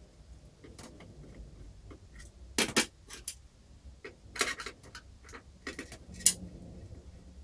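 Scattered sharp metallic clicks and taps from screws and PC drive hardware being handled, with a louder pair about two and a half seconds in and the loudest single click about six seconds in.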